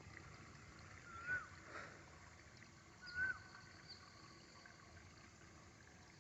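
Faint outdoor background with two short chirping calls from a small animal, about two seconds apart, each rising and then falling in pitch.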